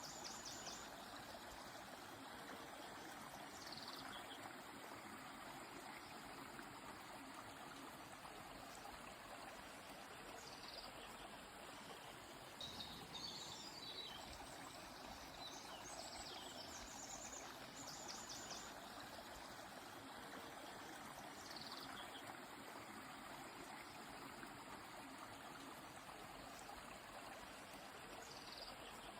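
Steady rush of a flowing stream, with short high bird chirps and trills now and then throughout.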